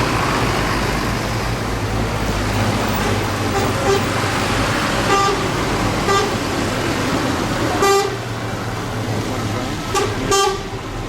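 Tractor engines running in a passing procession, with a string of short horn toots that come more often in the second half.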